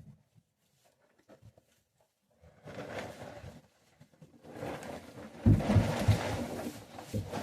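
Sheep eating hay inside their shed: rustling and munching that starts about two and a half seconds in and grows louder, with a few heavy thuds a little past the middle.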